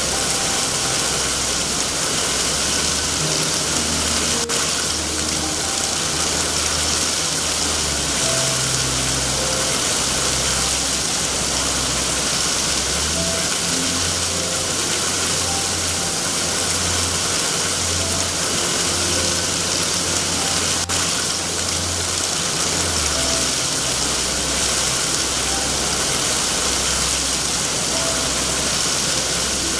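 Steady heavy rain hiss, with a low droning hum underneath that shifts in pitch every few seconds and faint scattered soft notes. Two sharp pops stand out, about four seconds in and again about twenty-one seconds in.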